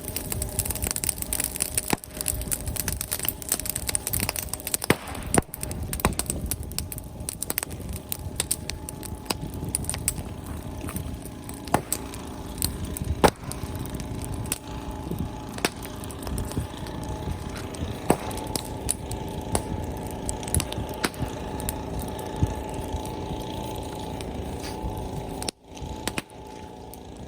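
Open brushwood bonfire crackling, with frequent sharp, irregular pops over a steady rushing bed. Near the end the sound cuts out for a moment and comes back quieter.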